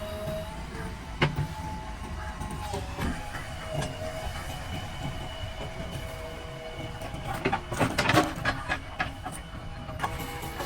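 Diesel engine of a JCB backhoe loader running steadily with a whine over it. There is a sharp knock about a second in and a burst of metallic clanks and knocks about eight seconds in.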